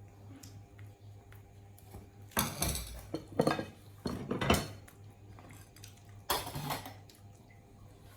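Handling noises: four or five short bursts of clatter and clinking, a second or two apart, over a low steady hum.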